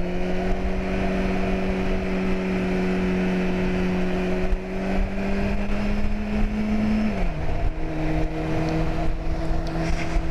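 Motorcycle engine running at steady revs with wind noise. About seven seconds in, the revs drop suddenly to a lower steady note.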